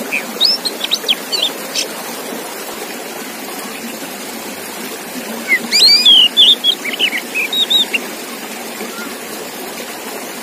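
Oriental magpie-robin (kacer) singing: two bursts of quick, varied whistles and chirps, one in the first two seconds and another from about five and a half seconds in, over a steady background hiss.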